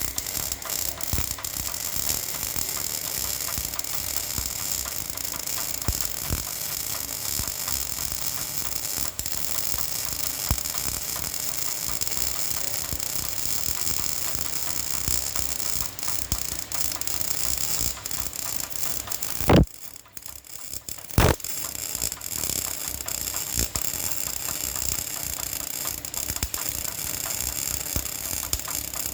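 Arc welding: the arc crackles and sputters steadily. Near two-thirds through it cuts out for about a second and a half, with a sharp crack as it stops and another as the arc strikes again.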